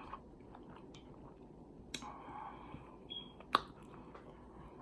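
Quiet room with a few faint, short clicks, the sharpest about two seconds and three and a half seconds in.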